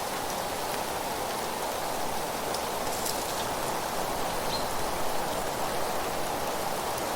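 Steady rush of wind and rustling leaves, with a few faint, short high chirps from birds about three and four and a half seconds in.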